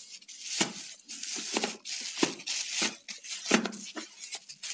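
Packaging rustling and crinkling, with a few short clicks and knocks, as a portable Bluetooth speaker is taken out and handled.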